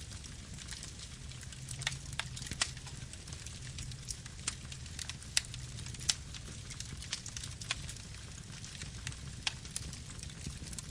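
Campfire burning: wood crackling and popping at irregular moments, several sharp pops every couple of seconds, over a low steady rumble of the flames.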